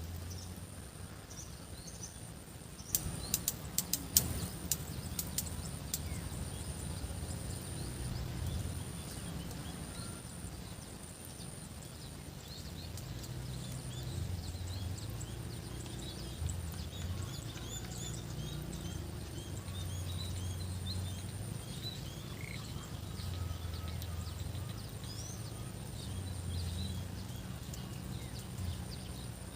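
Rural outdoor ambience: small birds chirping over a steady high-pitched insect drone. About three to four seconds in there is a quick run of sharp clicks, and a low rumble comes and goes.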